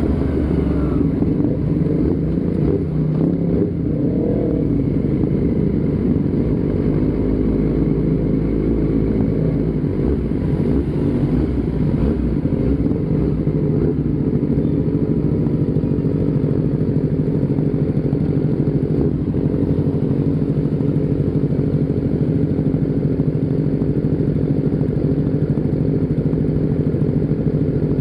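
Motorcycle engine running steadily while riding at an even speed, with a dense low rumble under it.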